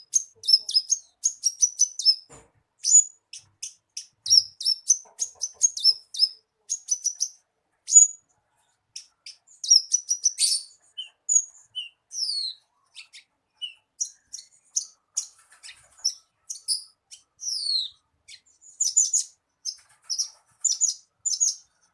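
Horsfield's bush lark (branjangan) singing, played as a lure song to get a captive bird singing. It is a fast, continuous stream of short high chirps and trills, with a few downward-sliding whistled notes.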